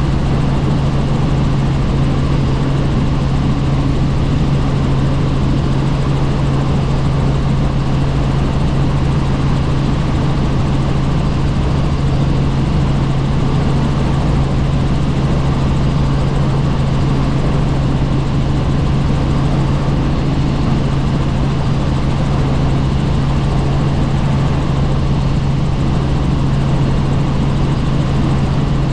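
Helicopter in flight: steady rotor and engine noise with a constant low hum, unchanging throughout.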